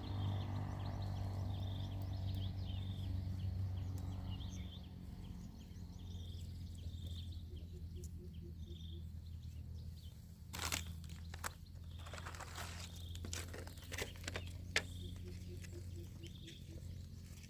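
Outdoor ambience: a steady low hum, with a short high call repeating about once a second, likely a bird or insect. Around the middle come a few sharp crunching, clattering handling noises.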